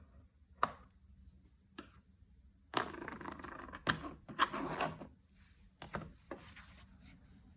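Hand work on small objects on a workbench: a few sharp clicks and knocks, with about two and a half seconds of rubbing from roughly three seconds in, broken by two louder knocks.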